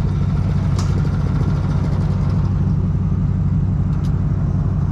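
An engine idling steadily with a low, even hum, with a couple of faint clicks about a second in and near the end.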